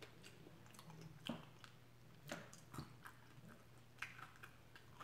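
Faint chewing close to the microphone: soft, scattered mouth clicks and smacks, a few louder ones around a second in and again at about two and a half seconds.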